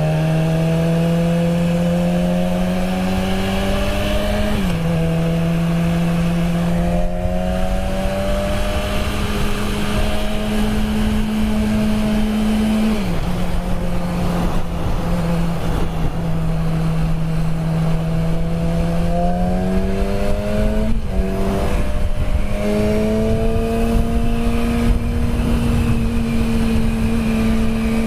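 Honda Grom's single-cylinder four-stroke engine, still on its stock exhaust, running under way. The engine note climbs slowly with speed and drops sharply at three gear shifts, about five, thirteen and twenty-one seconds in. Wind rumble runs underneath.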